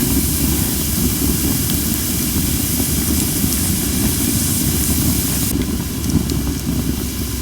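Cherry-wood campfire hissing steadily, with a few faint crackles, under a heavy low rumble of strong wind on the microphone. The hiss comes from firewood that was not dried enough, and it lessens about five and a half seconds in.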